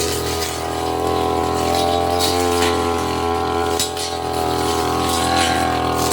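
Tasco brush cutter's engine running steadily at high throttle, with several short cracks as the blade cuts through undergrowth.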